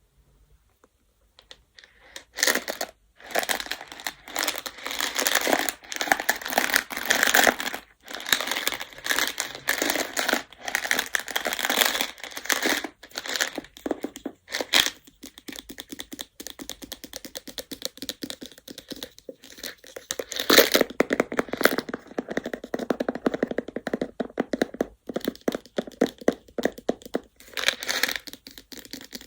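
Baduk (Go) stones clattering against one another: a dense run of small clicks and rattles that starts about two seconds in and goes on with a few brief pauses.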